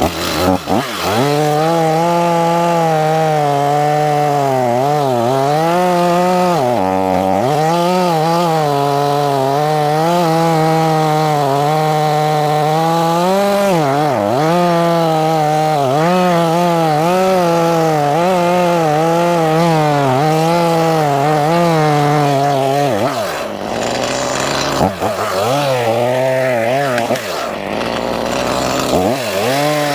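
Stihl two-stroke chainsaw running at high speed and cutting wood, its pitch sagging under load several times and recovering. Near the end the engine revs up and down unevenly.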